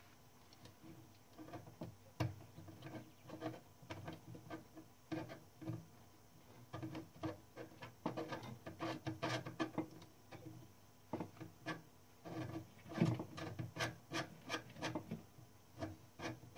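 Hand work on a Klein Adler 2 typewriter's mechanism: irregular small clicks, taps and scraping of metal parts and tools, in uneven flurries.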